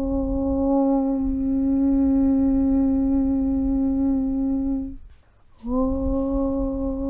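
A long, steady chanted "Aum" hum on one low pitch, over a low rumble. It breaks off about five seconds in, and after half a second a new hum starts, sliding briefly up into the same pitch.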